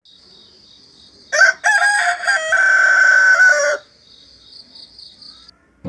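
A rooster crowing once, a long call starting about a second and a half in, over a steady high chirring of insects.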